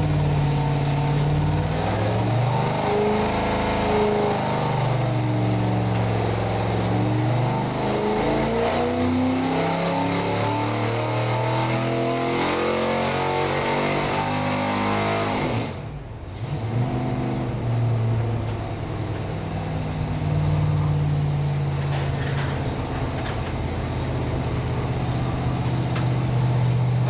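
Performance V8 engine running hard under load during a dyno pull, its note shifting up and down. About 16 seconds in it drops off sharply and settles to a steadier, lower note. The crew heard a little misfire near the top of the pull.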